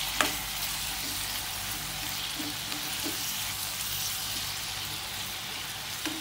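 Onions, tomatoes and green chillies sizzling in coconut oil in a nonstick frying pan as they are stirred with a steel spoon. The spoon clinks sharply against the pan just after the start, with a few softer scrapes later.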